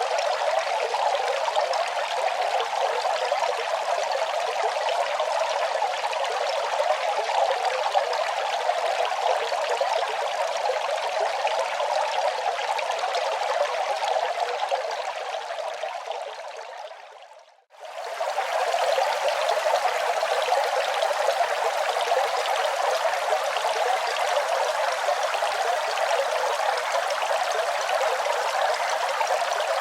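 Steady running water. It fades down over a few seconds to near silence about seventeen seconds in, then swells straight back up within a second.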